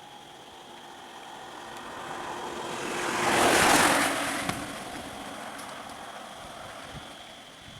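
A vehicle passing by on the road: a rushing noise that swells up, peaks about halfway through and fades away again.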